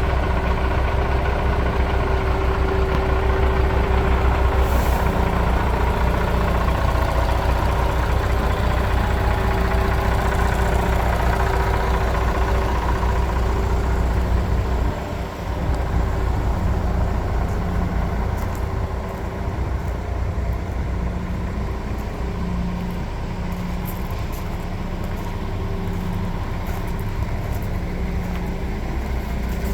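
Iveco 410E42 heavy-duty truck's diesel engine running steadily. It briefly dips about halfway through and then runs a little quieter.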